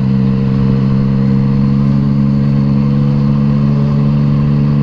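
Yamaha MT-09 three-cylinder engine with an Akrapovic exhaust running at a steady, unchanging engine speed.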